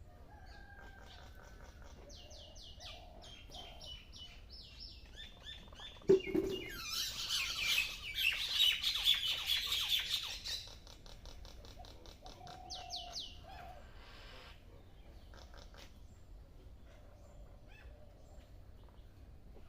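Small birds chirping in quick runs of repeated notes. About six seconds in, a sudden loud outbreak of harsh, dense chattering lasts about four seconds, then dies back to scattered chirps.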